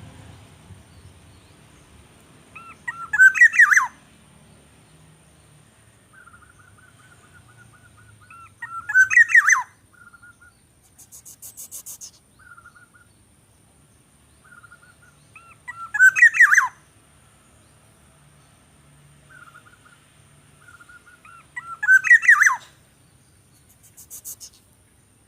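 A bird calling: four loud chirping bursts, one every six or seven seconds, with softer repeated notes between them.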